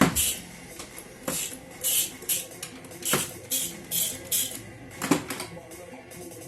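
Ratchet wrench clicking in short strokes as bolts are worked loose on a scooter engine, with a few sharp metal knocks.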